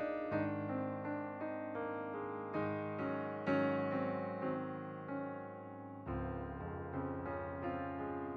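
Background piano music: a gentle, slow piece with notes and chords struck and left to fade.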